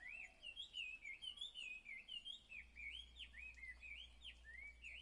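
Faint birdsong: a continuous run of quick whistled chirps, each sweeping up and down, about four or five a second. A low steady hum comes in about halfway through.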